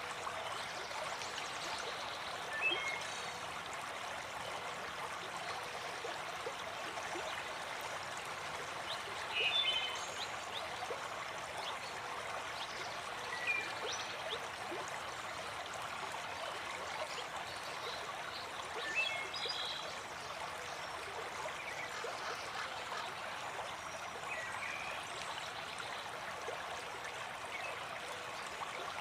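Waterfall water running in a steady rush, with short high bird chirps every few seconds.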